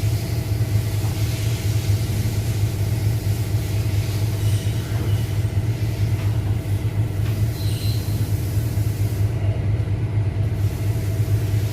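A steady, loud low hum of running machinery that holds unchanged throughout, with a few faint light clinks over it.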